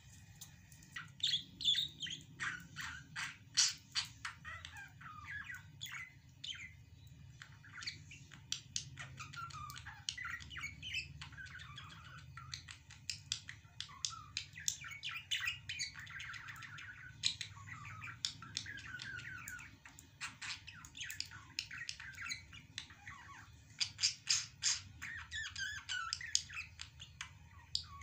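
Birds chirping, a dense run of quick, short calls that keeps going throughout, over a low steady hum.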